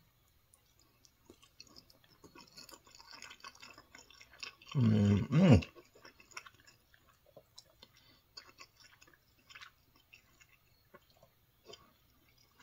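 A person chewing a mouthful of Salisbury steak with rice and corn, with faint wet mouth clicks. About five seconds in comes a loud hummed "mm-mm" of enjoyment whose pitch rises and falls.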